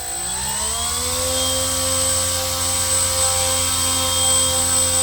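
A 900kv electric motor spinning a 3D-printed 11.86 x 3 inch scale propeller, rising in pitch over about the first second as the throttle goes up to half, then running steadily. A thin high whine runs throughout.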